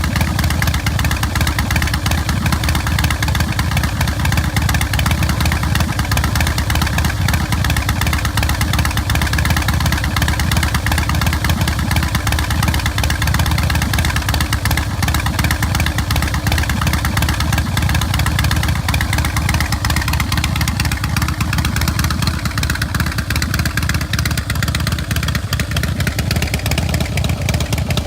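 V-twin engine of a 2008 Harley-Davidson/Thunder Mountain Keystone 110 custom Softail chopper running steadily, as at idle.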